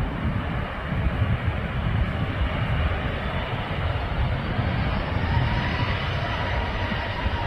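Jet airliner's engines running with a heavy rumble; a turbine whine comes in about two-thirds through and starts to rise in pitch near the end as the engines spool up for takeoff.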